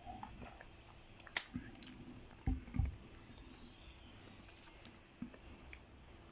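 Quiet chewing and mouth sounds of someone eating. A sharp click comes about a second and a half in, and two dull low thumps just before the three-second mark.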